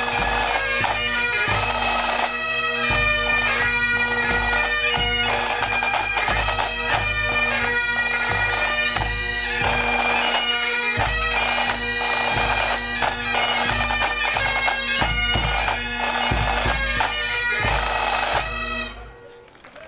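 Massed pipe bands playing a tune on Great Highland bagpipes, a chanter melody over steady drones, with drums beating beneath. The tune cuts off sharply near the end, at the band's finish.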